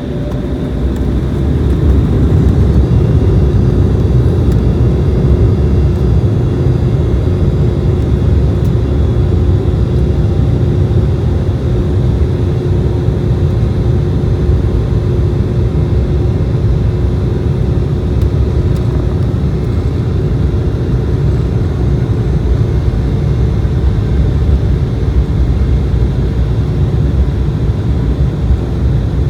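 Cabin of an Embraer 190 jet during takeoff: the twin turbofan engines rise to takeoff power over the first couple of seconds, then run loud and steady with a deep rumble and a faint steady whine.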